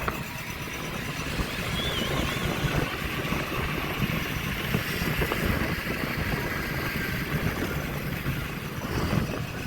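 Steady mix of motorcycle and dirt bike engines running.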